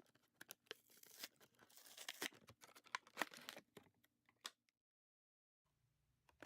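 Toy packaging being torn open and crinkled by hand: a string of faint rustles, tears and small snaps for about four seconds, then it cuts to dead silence.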